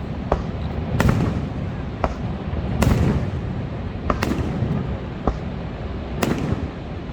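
Fireworks going off: a string of about nine sharp bangs at uneven intervals, some followed by a low rumbling boom, over a constant low roar.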